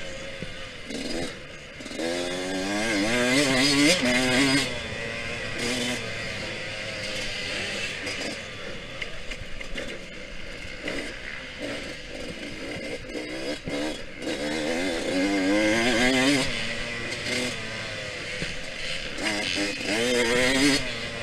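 Yamaha YZ125X's 125cc two-stroke single-cylinder engine revving under acceleration on a dirt track, its pitch climbing in repeated pulls and dropping between them as the throttle is worked and gears change; the hardest pulls come a few seconds in, again past the middle and near the end.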